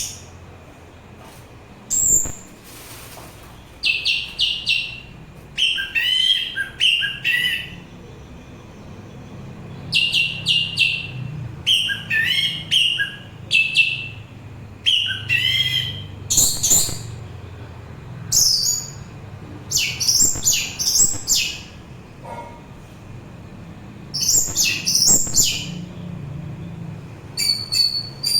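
Orange-headed thrush singing: short phrases of quick, varied whistled and twittering notes, repeated every couple of seconds with brief pauses between them.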